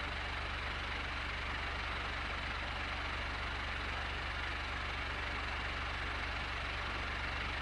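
Comfort Zone electric fan running steadily: an even rush of air with a constant low motor hum underneath.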